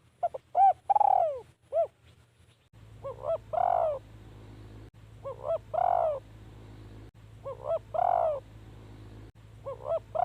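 Spotted dove cooing: a phrase of short notes and a longer falling coo near the start, then the same phrase repeated four times about every two seconds. A steady low hum runs under the later phrases.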